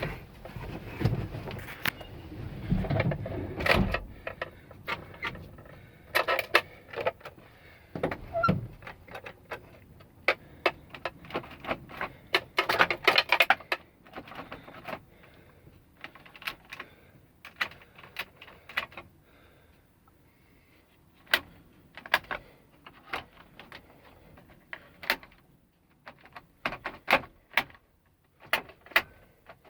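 Irregular clicks, knocks and rattles from handling the fittings of a 1992 Ford Cargo truck's cab, with heavier thumps in the first four seconds and a quick run of clicking about twelve to fourteen seconds in.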